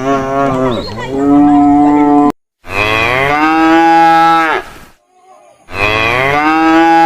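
Cattle mooing: three long, loud moos one after another, separated by short, abrupt silences.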